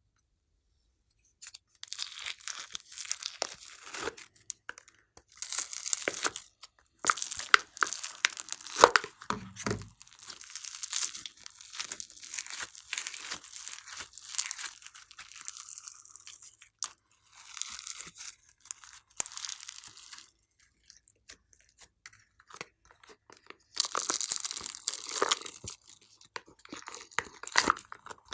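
Slime being squeezed, pressed and stretched by hand, crackling and popping in irregular bursts, with a pause of a few seconds near the end.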